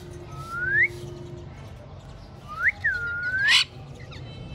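Pet parrot whistling: a rising whistle about half a second in, then a quick upward whistle and a longer one that dips and climbs again near three seconds, ending in a short harsh squawk.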